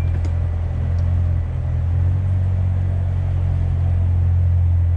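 Corvette's engine running at low speed, a steady deep drone.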